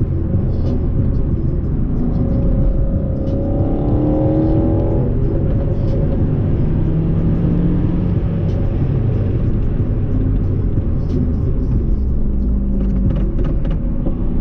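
Car engine and road rumble from a moving car. The engine pitch climbs for a few seconds as it accelerates about two seconds in, then drops back to a steady cruise.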